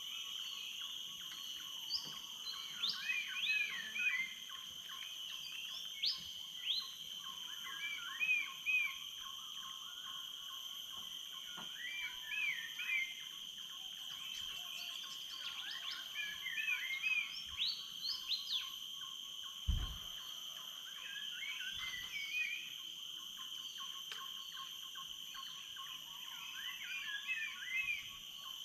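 Tropical forest dawn chorus: a bird sings short phrases of quick rising and falling whistled notes every few seconds over a steady, high-pitched insect drone. A single low thump about two-thirds of the way through.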